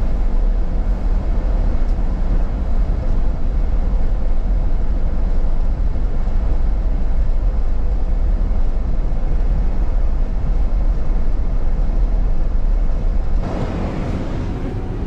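Steady road and engine noise of a moving car, heavy and rumbling in the low end, which eases off near the end.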